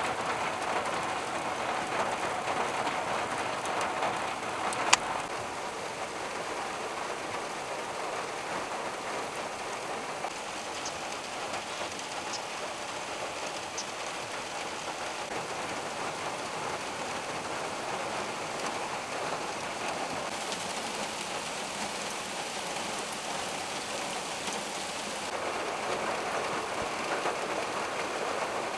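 Steady rain falling on the forest and the van, an even, dense patter. A single sharp click about five seconds in.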